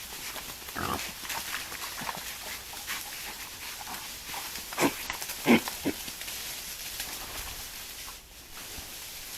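Wild boar giving a few short grunts, the loudest cluster about halfway through, over a steady hiss.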